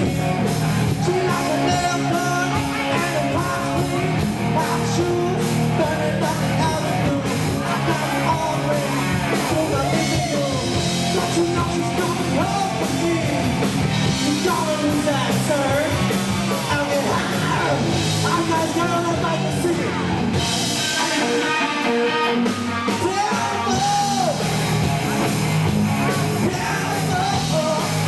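Live rock band playing loud through a PA, with a singer's voice wavering over the instruments in parts, recorded from the crowd with rough, poor-quality sound.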